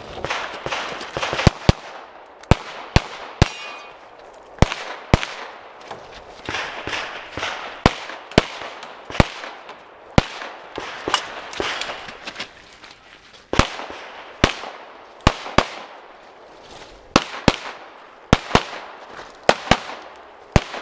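Pistol shots fired in quick pairs and short strings with brief pauses between, each shot followed by an echo off the range: a timed competition course of fire.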